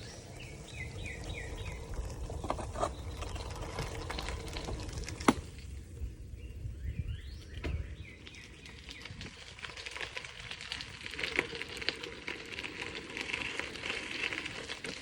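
Songbirds singing: a quick run of repeated descending chirps near the start, another run about seven seconds in, and busier chirping near the end. Under it, the low rumble and rattling knocks of a bicycle on a bumpy trail, with one sharp knock about five seconds in; the rumble eases after about eight seconds.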